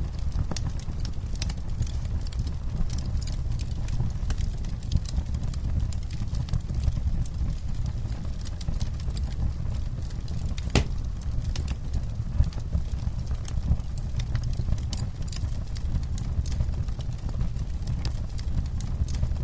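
Campfire crackling: a steady low rumble under frequent, irregular sharp snaps and pops, with one louder pop about eleven seconds in.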